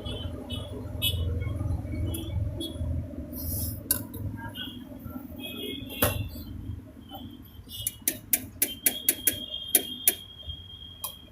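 Clatter of dahi puri being prepared at a chaat stall over a steady background hum; from about eight seconds in comes a quick run of sharp taps and clicks, several a second, with a thin steady tone partway through.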